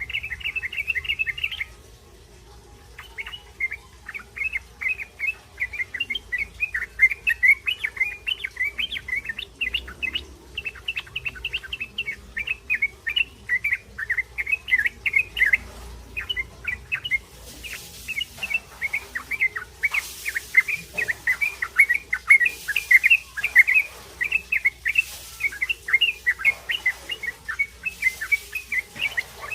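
Juvenile yellow-vented bulbul (trucukan) twittering 'ngriwik': a rapid, almost unbroken string of short high chirps. The chatter pauses briefly near the start, then runs on.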